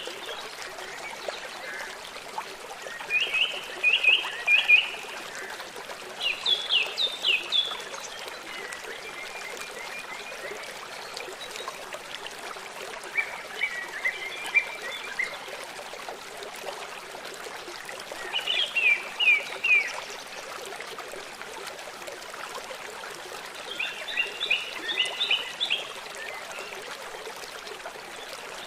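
A river flowing steadily, with a songbird singing short phrases of four to six quick high notes every few seconds.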